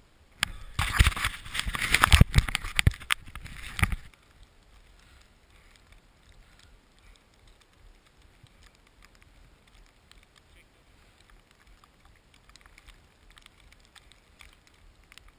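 A burst of rough scraping and sharp knocks close to the microphone lasts about three and a half seconds, then gives way to a faint, steady hiss.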